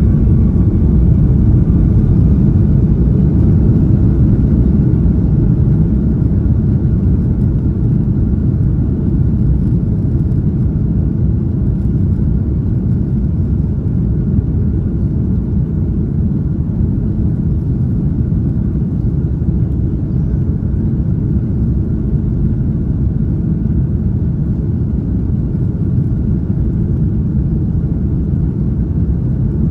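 Airbus A330-243's Rolls-Royce Trent 700 engines at takeoff thrust, heard inside the passenger cabin during the takeoff roll as a loud, steady, deep rumble.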